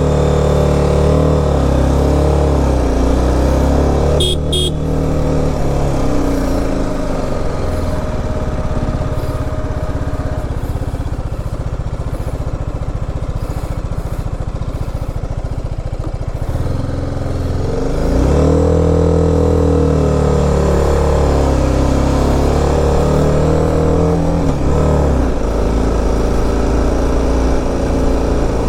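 BMW G 310 RR's single-cylinder engine pulling under load, its pitch rising and falling as the revs climb and drop, with two clear swells near the start and about two-thirds of the way through. A short double beep sounds about four seconds in.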